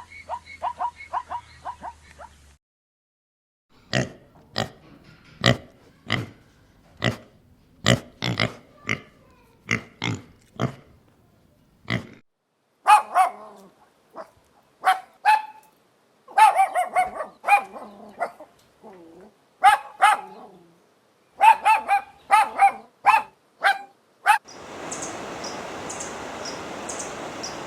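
Short animal calls in quick succession, in several stretches: first a fast run of short yips, then sharp barks about twice a second, then pitched grunting calls. About 25 seconds in these give way to a steady rustling hiss with a fast, high chirping over it.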